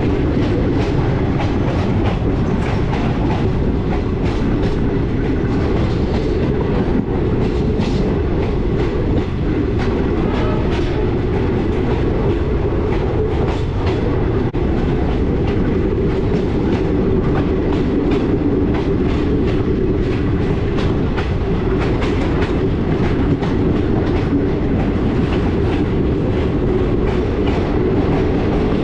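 Passenger express train running at speed, heard from on board: a steady rumble of the coaches with frequent clickety-clack of the wheels over rail joints.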